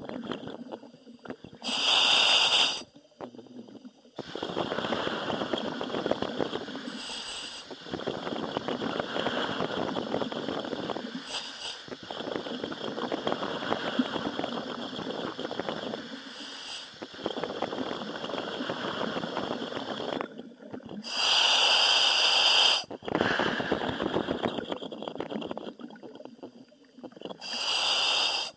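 A commercial diver working underwater, heard through the helmet: short, loud hisses of breath through the demand valve, and long spells of crackling, bubbling noise.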